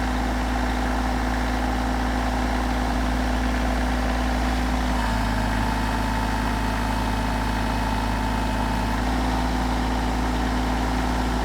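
Mahindra tractor's diesel engine running steadily at idle, its tone shifting slightly about five seconds in and again about nine seconds in.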